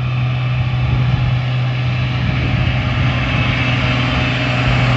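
Tractor engine running as it drives along the road, a steady low hum that grows a little louder toward the end as it comes closer.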